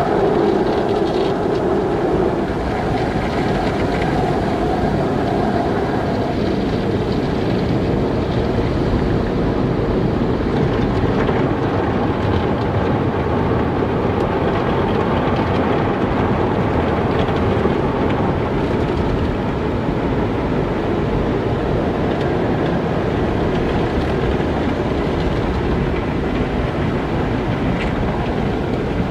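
Automatic car wash running: a steady rush of water spray and machinery, with a low hum that fades out in the first few seconds.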